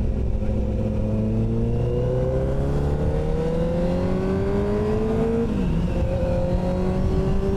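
Motorcycle engine pulling up through the revs in one gear, a gear change about five and a half seconds in, then holding a steady speed, with wind rushing over the microphone.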